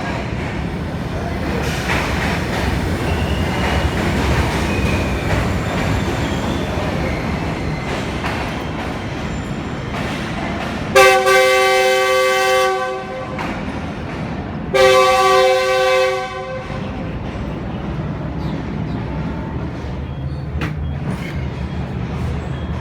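Diesel locomotive horn sounding two long blasts, a few seconds apart, over the steady low rumble of a train in a station.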